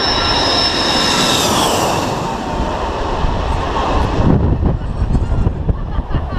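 Jet aircraft passing low overhead: a loud engine roar with a high whine that fades out about two seconds in, followed by low, gusting wind buffeting the microphone.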